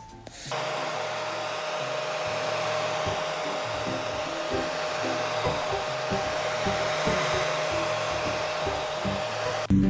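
A small motor blowing air, giving a steady rushing noise with a constant hum. It switches on about half a second in and cuts off just before the end.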